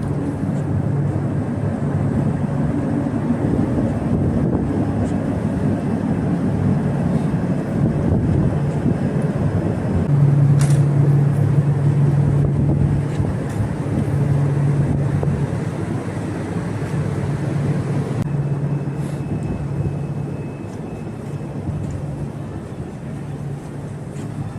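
Steady rushing ambience on a cruise ship's open deck, with a low hum that swells and fades several times.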